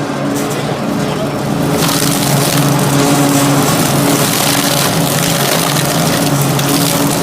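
Industrial metal shredder running: a steady motor hum under a dense grinding, crunching noise that gets louder about two seconds in.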